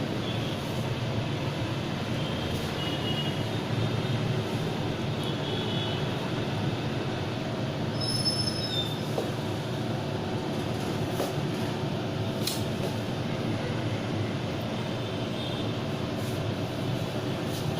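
Steady low rumble of vehicle engines and traffic, with a few short high-pitched squeals and a couple of sharp clicks.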